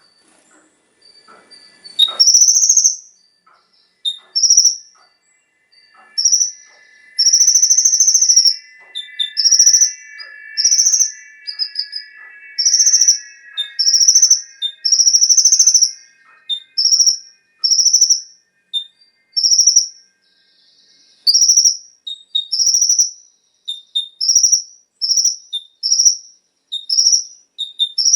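A konin (kolibri ninja) sunbird singing: loud, short, high chirps repeated about once a second, with quick extra notes between them. A fainter steady whine sits underneath from about six seconds in until about twenty seconds in.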